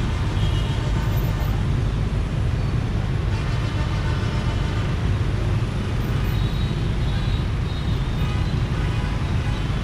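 Motor scooter riding through dense city traffic: a steady low rumble of engine and road noise, with other vehicles around it.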